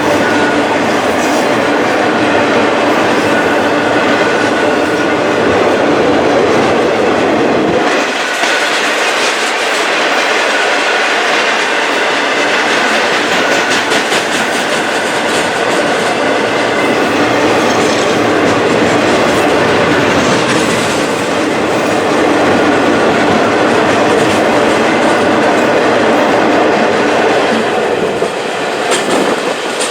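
Freight train cars rolling past with a steady rumble of steel wheels on rail and repeated clicking over the rail joints.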